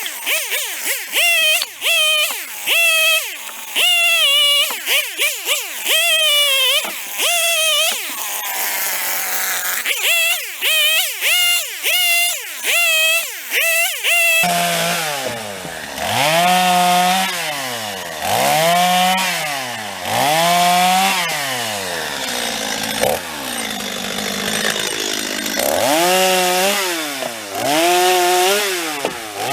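Stihl MS 250 two-stroke chainsaw cutting up small firewood, its engine revving up and down over and over. In the first half the revs come in quick short blips; about halfway through the sound changes abruptly and then rises and falls in pitch roughly every second and a half as the saw speeds up and bogs into the cuts.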